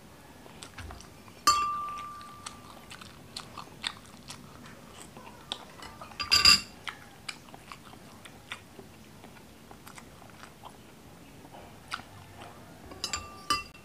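Close-up chewing and biting of balot, boiled duck egg with its embryo, with many small wet clicks. A metal spoon clinks with a short ring about a second and a half in, louder about six seconds in, and again several times near the end.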